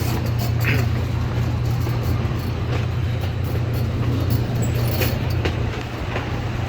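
Amusement-park train running, heard from on board: a steady low drone with rumbling noise over it and a few sharp clicks scattered through.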